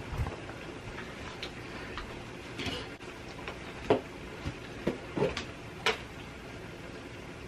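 Scattered light clicks and knocks at irregular intervals, as of small objects being handled, over a steady background noise.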